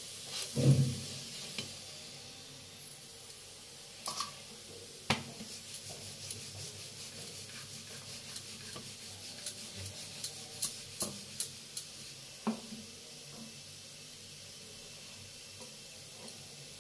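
Aloo paratha cooking on a hot non-stick tawa: faint steady sizzling with scattered sharp crackles and pops, thickest about ten to thirteen seconds in. A soft knock sounds near the start.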